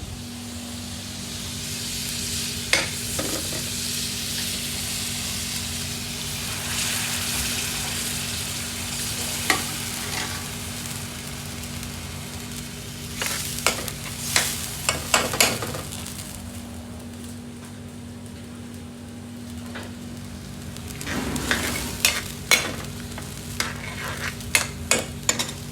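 Food frying and sizzling in a pan while it is stirred, a metal utensil knocking and scraping against the pan in quick clusters near the middle and again near the end. A steady hum runs underneath.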